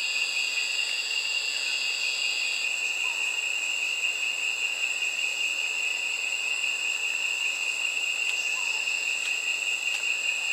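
Steady, high-pitched insect chorus with no break. One higher strand of it stops about two and a half seconds in, and a few faint short chirps sound over it.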